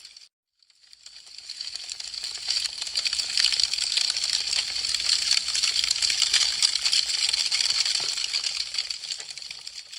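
Wood fire crackling: a dense run of small, rapid snaps and pops. It drops out to silence for a moment just after the start, fades back in over about a second, and fades down again near the end.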